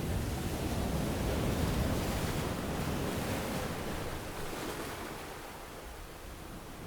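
Ocean waves washing onto a sandy beach: one wave breaks just as the sound opens and its wash slowly fades over the next few seconds.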